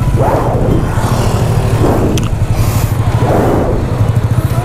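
Motorcycle engine idling with a steady, even pulse while the bikes stand still, with a hissing swell about every second and a half and a single click about two seconds in.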